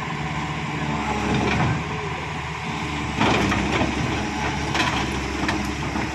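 Tracked excavator's diesel engine running steadily, with a few sharp knocks over it, the loudest about halfway through.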